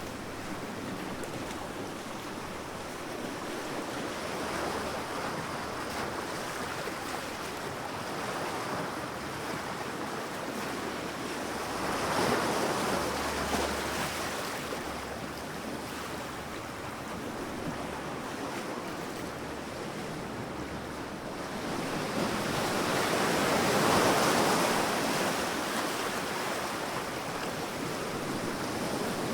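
Sea waves breaking and washing up a sand beach, a steady rush of surf that swells twice as larger waves break, with some wind on the microphone.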